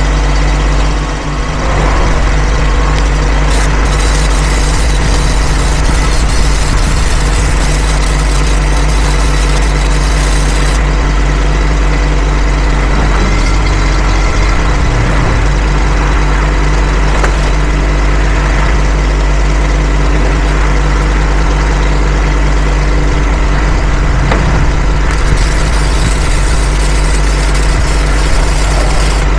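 An engine idling steadily. Twice, for several seconds each, a flux-core MIG welder's arc adds a crackling hiss on top, about 3 to 11 seconds in and again near the end.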